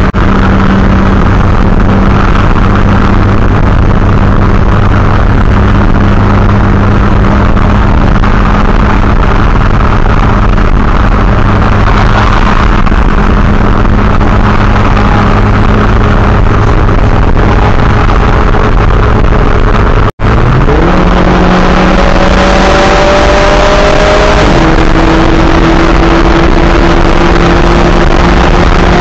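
Big-turbo Audi A5 2.0T turbocharged four-cylinder heard from inside the car at highway speed: a steady engine drone over road noise. After a brief cut about two-thirds of the way in, the engine pitch climbs under acceleration, drops back once at a gear change and climbs again.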